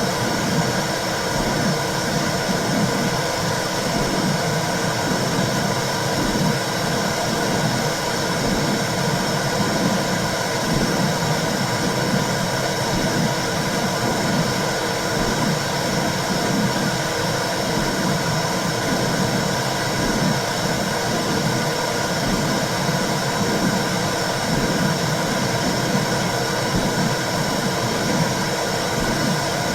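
Womb sound for calming babies: a steady rushing whoosh with a low, uneven throbbing pulse underneath, unchanging throughout.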